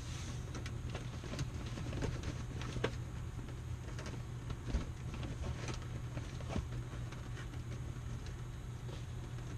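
Scattered light clicks and knocks of hands handling a hose and fittings, over a steady low hum.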